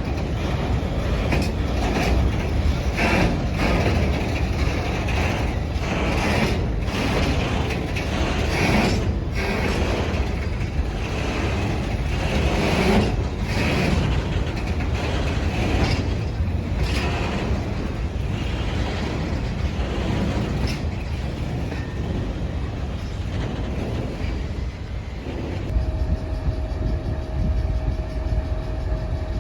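Train passing close by: a heavy low rumble with repeated sharp knocks of wheels over rail joints, easing off over the last few seconds. Near the end it changes abruptly to a diesel locomotive's engine running steadily with a single held hum.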